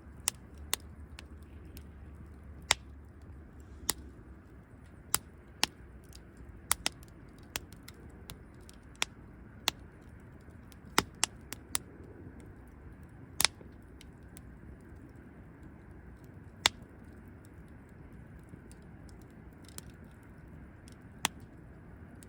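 Wood fire crackling: sharp, irregular pops, about one a second, over a steady low hiss of burning.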